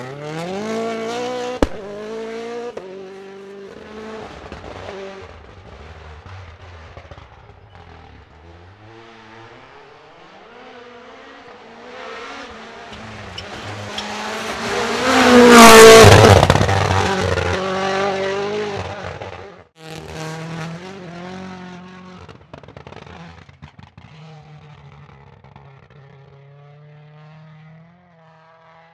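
Hyundai i20 N Rally1 rally car's turbocharged four-cylinder engine revving up and down through gear changes. A car passes close at full throttle, loudest about halfway through. Near the end a quieter engine holds steadier revs.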